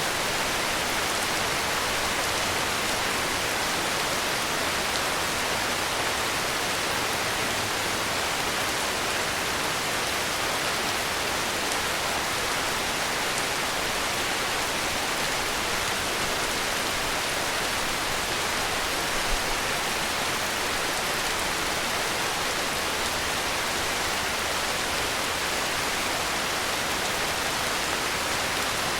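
Heavy rain falling, a steady even hiss with no changes.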